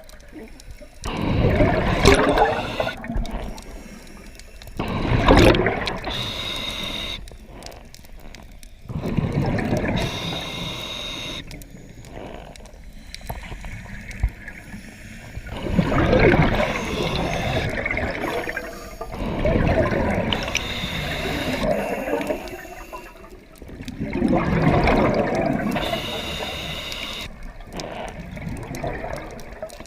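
Scuba regulator breathing underwater: bursts of gurgling exhaust bubbles about every four seconds, with a faint hiss and whistle between them.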